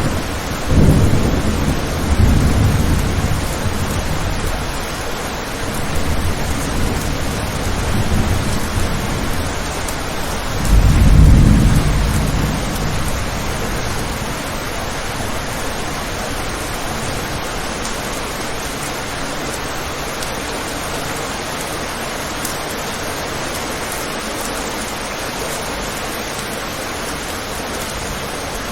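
Steady heavy rain with rolling thunder rumbling through the first half, swelling to its loudest about eleven seconds in, then dying away to leave the rain alone.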